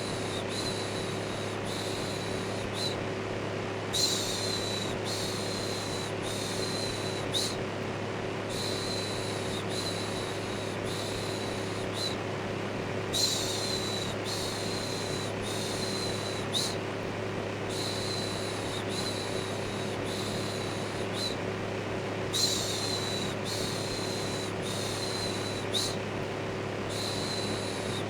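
Steady fan sound: an even whooshing hum with a low drone. Over it a soft "shhh" shushing repeats about once a second in runs of three or four, with short pauses between runs, to soothe a baby to sleep.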